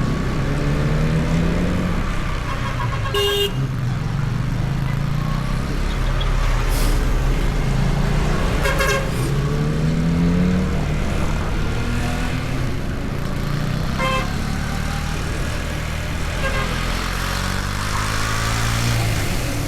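KTM Duke 250 single-cylinder engine under way, its note climbing in pitch several times as it pulls through the gears, over steady wind and road rush. Short vehicle horn toots sound three times, at about three, nine and fourteen seconds in.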